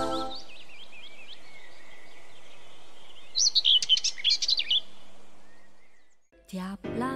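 Birds chirping over a steady hiss of outdoor ambience, with a quick cluster of chirps about halfway through; the ambience then fades out.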